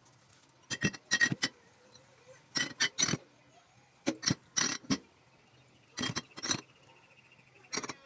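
Containers clinking and knocking as they are set into a refrigerator, in short clusters of sharp clinks every second or so over a low steady hum.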